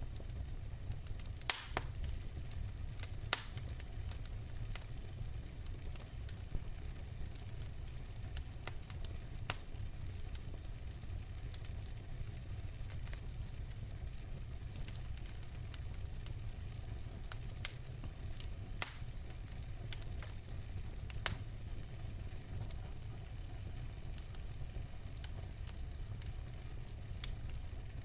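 Wood fire in a fireplace burning steadily with a low rumble of flames and irregular sharp crackles and pops from the logs.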